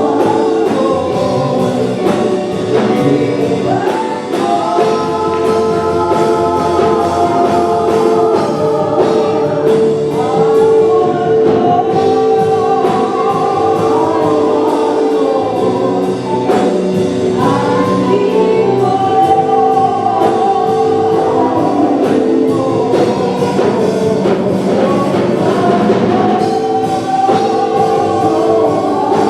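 Gospel choir singing over a full band with drums, a steady beat under held, sliding sung notes.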